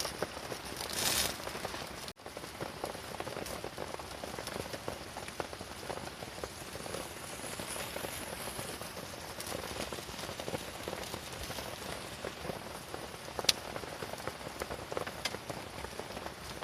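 Rain pattering steadily on a canvas tent, a dense hiss of many small drop ticks, with one sharp click about three-quarters of the way through.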